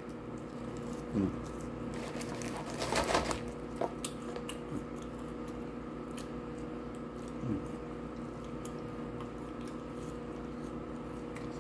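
Close-up chewing of McDonald's french fries: soft wet mouth sounds and small clicks over a steady low hum. A brief voiced murmur comes about three seconds in.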